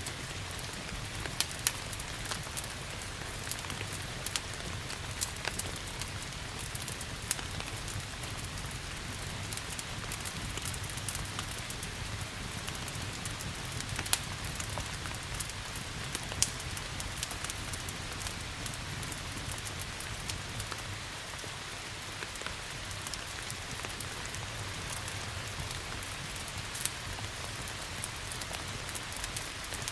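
Steady rain mixed with a crackling wood fire, sharp pops and snaps scattered through the even hiss of the rain.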